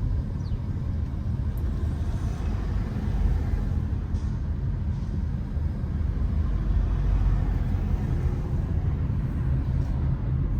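Steady low rumble of motor vehicles in city traffic, with no distinct events standing out.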